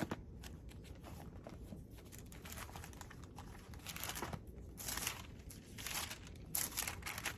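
Thin Bible pages being turned and rustled, a series of short rustles that grow stronger and longer in the second half.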